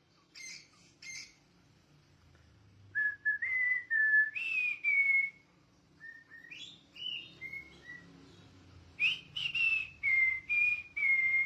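A parrot whistling: a few short high chirps, then three phrases of clear whistled notes, several of them sliding up and then levelling off.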